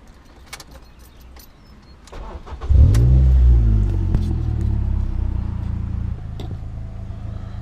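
Ford Fiesta ST Mk6 2.0-litre four-cylinder with a Milltek aftermarket exhaust being started. A few light clicks, then a brief crank about two seconds in. The engine catches with a loud flare of revs and settles into a steady idle.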